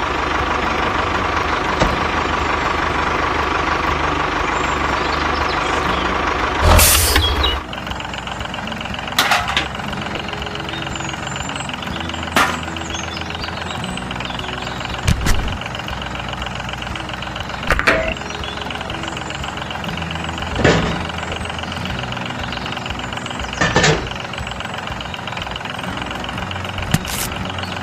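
A tractor-like engine runs steadily, with a sharp knock or clank about every three seconds.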